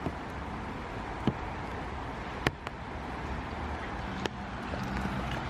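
Steady hiss of light rain, with a few sharp taps like drops hitting an umbrella. A faint low hum of traffic comes in over the last second or so.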